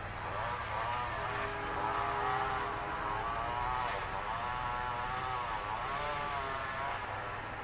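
Gas string trimmer's small two-stroke engine running, its pitch rising and falling over and over as the throttle is worked.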